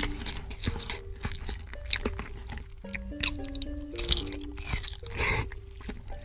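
Close-miked wet chewing, biting and mouth clicks of someone eating a seafood boil, over background music with a simple repeating melody.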